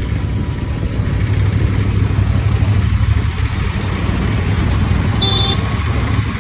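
Motorcycle cruising on a highway: a steady low rumble of engine and road noise. A brief high-pitched tone cuts in about five seconds in.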